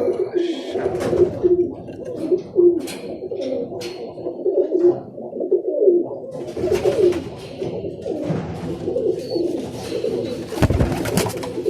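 Birmingham roller pigeons cooing, many calls overlapping, with scattered light clicks and a single low thump near the end.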